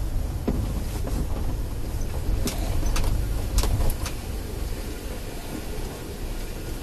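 Steady low rumble of a vehicle, with a handful of sharp clicks and knocks in the first four seconds.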